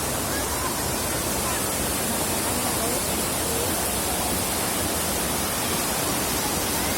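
Waterfall rushing steadily, a constant hiss of falling water, with faint voices of people in the distance.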